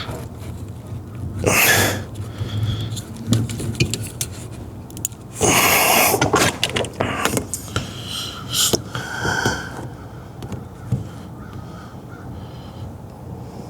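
Crows cawing: several harsh calls, the loudest a few seconds apart.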